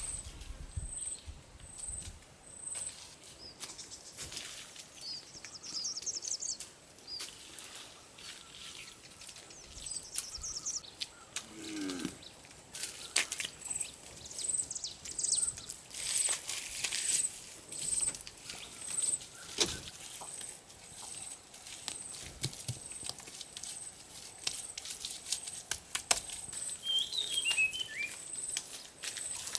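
Forest ambience: a high, even chirp repeating a little faster than once a second, with a few short bird calls and scattered clicks and knocks.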